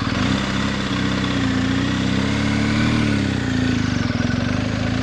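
Adventure motorcycle engine running at low speed, its pitch rising a little and then easing off about three seconds in.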